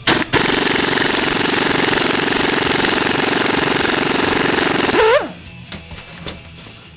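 Impact wrench hammering on a fastener: a short blip, then about five seconds of steady, rapid hammering. The motor's pitch sweeps as the trigger is let go.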